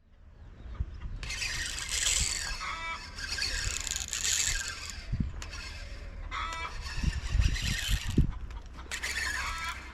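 Birds calling in several noisy bouts of chatter, each a few seconds long, with a few low thumps in between.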